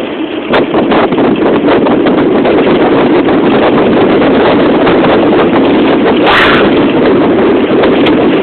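Wind buffeting the microphone while riding a bicycle downhill, with road noise and many small rattles throughout. The noise grows louder about half a second in, and a brief, sharper burst of noise comes about six seconds in.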